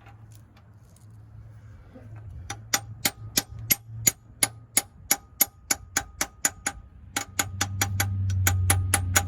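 Hammer blows driving a new pilot bearing into the crankshaft of a 1994 Ford Ranger: sharp, ringing metal-on-metal taps at about three to four a second, with a brief pause about seven seconds in. A low steady hum swells under the taps near the end.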